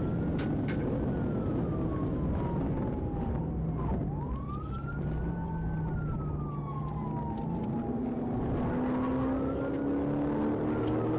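Police car siren on a slow wail, rising and falling about three times, over steady engine and road noise. The engine note climbs in the second half as the car speeds up. Two short clicks come just after the start.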